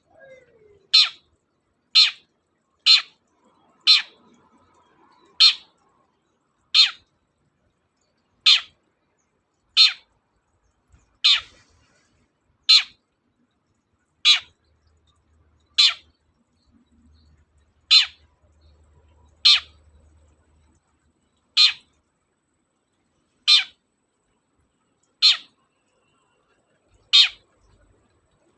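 Long-tailed shrike (cendet) giving short, sharp calls, one every one to two seconds, about eighteen in a row.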